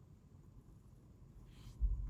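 Quiet low rumble with a brief soft hiss about one and a half seconds in, then a dull low thump near the end.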